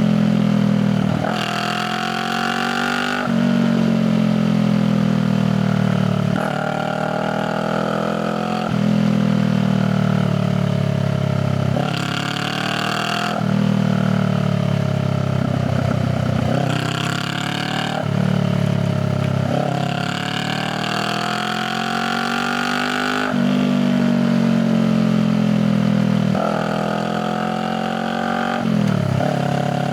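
Honda Rebel 500's parallel-twin engine heard through its exhaust while riding. It climbs and drops in pitch again and again every few seconds as the rider accelerates, shifts gears and eases off the throttle.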